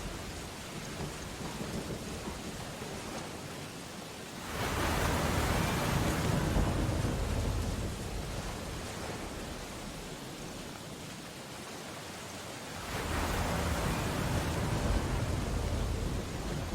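Steady rain on window glass over a stormy sea, with two heavy surges of crashing ocean waves, about four and thirteen seconds in, each carrying a deep rumble.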